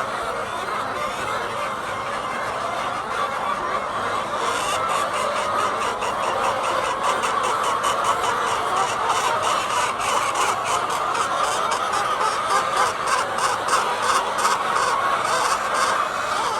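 A flock of laying hens clucking and chattering together in a continuous din. About four seconds in, a fast run of sharp clicks joins it and keeps going until near the end.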